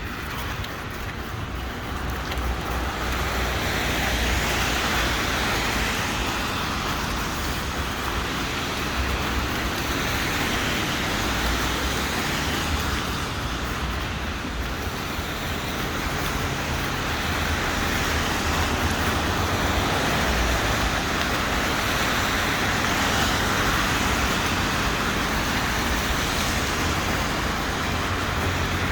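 Road traffic: cars and other vehicles passing in a steady wash of tyre and engine noise, swelling now and then as vehicles go by.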